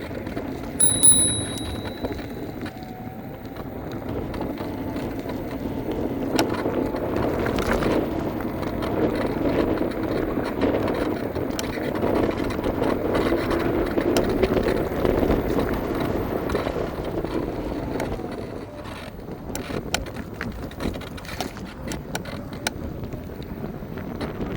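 Electric scooter rolling along the pavement: a steady rumble of the small wheels on the road, with scattered rattles and clicks. A short high beep sounds about a second in.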